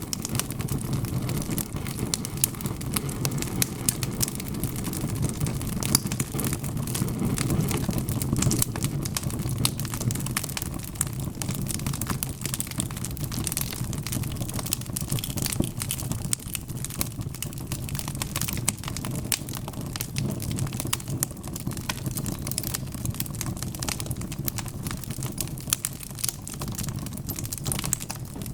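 Wood fire crackling: many sharp, irregular pops and snaps over a steady low rumble of the flames.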